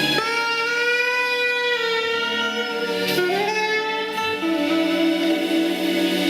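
Jazz saxophone playing long held notes over sustained chords. It slides up into a new note right at the start and again about three seconds in.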